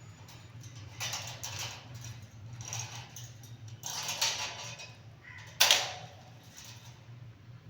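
A pet green parrot shuffling and scratching in short scuffles, with one louder sharp noise about five and a half seconds in, over a steady low hum.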